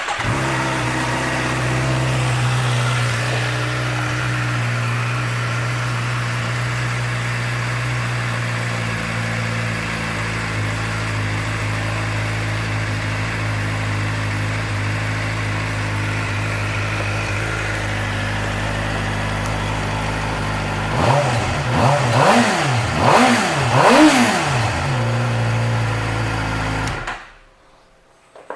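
2011 Suzuki GSX-R600's inline-four engine idling steadily, then revved four quick times about three-quarters of the way through, and switched off a little before the end.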